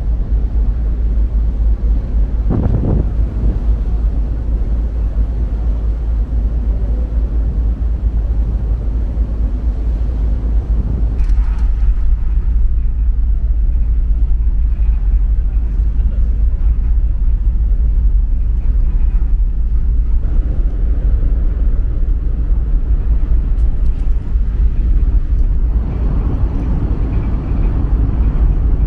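Steady low diesel engine rumble with a few brief louder surges, such as a heavy truck idling or a ferry's engines running.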